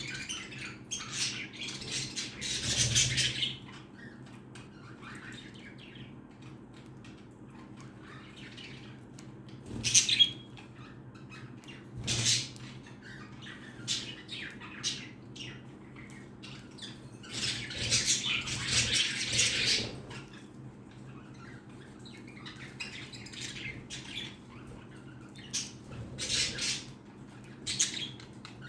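Pet chicken busy at vegetables: scattered sharp taps, and two longer bursts of rustling of about two seconds each, one near the start and one about two-thirds of the way through.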